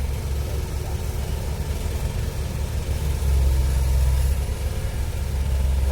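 Heavy diesel engine of a Komatsu PC160-8LC excavator running as it digs and loads soil into a dump truck: a steady low rumble that briefly grows louder about three seconds in, as the engine takes load.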